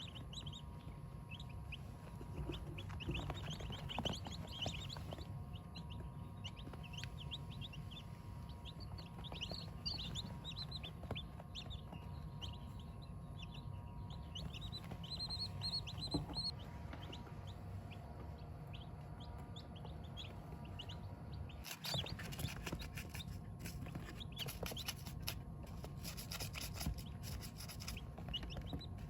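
Chickens calling with many short, high peeps, thickest in the first half and thinning out after that, over a steady low hum. From about two-thirds of the way in, a run of clicking and rustling comes in.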